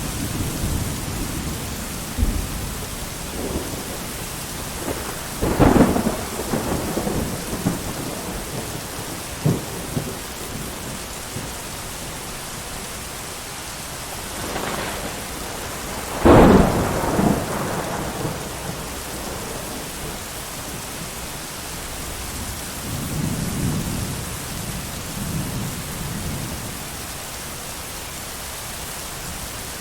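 Steady heavy rain with thunder: two loud cracks that roll off over a second or two, about six and sixteen seconds in, and a softer low rumble near the end.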